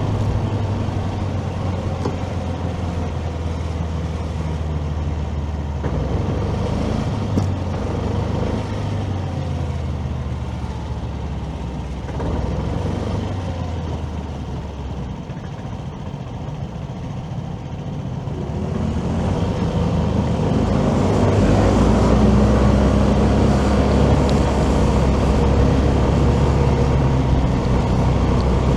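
A motorcycle running through city traffic, its engine steady under road and traffic noise. It eases off and quietens in the middle, then runs louder again from about two-thirds of the way in.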